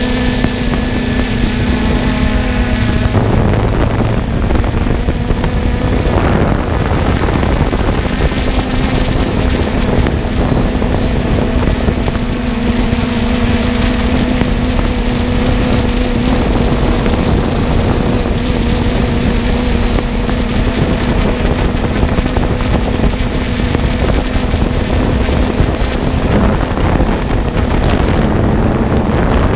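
Multirotor drone's propellers and motors humming steadily at close range, with wind rushing over the onboard microphone.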